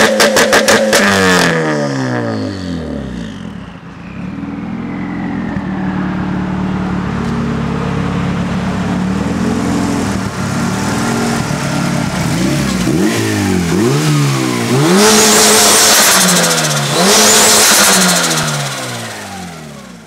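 Turbocharged Honda B16A2 engine in a Civic coupe: it comes off the throttle with a rapid fluttering chatter as the revs fall, and a thin turbo whistle winds down. It then runs steadily before a series of short revs, two of them with a loud rushing hiss.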